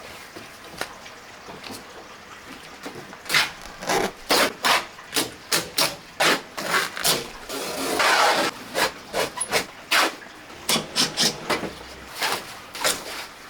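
Hand work stripping a van's interior: irregular clicks and knocks, sparse at first and coming thick and fast from about three seconds in, with a longer scrape about eight seconds in.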